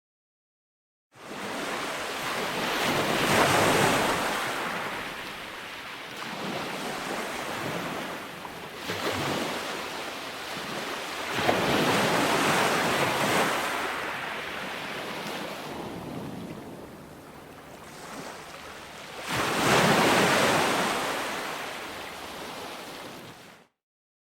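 Calm ocean surf washing onto a beach, swelling and fading three times about eight seconds apart. The sound starts abruptly about a second in and cuts off suddenly near the end.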